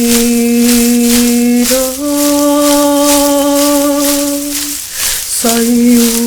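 A voice toning long held notes, stepping up to a higher note about two seconds in and back down after a short break near five seconds, over a hand rattle shaken in a steady rhythm.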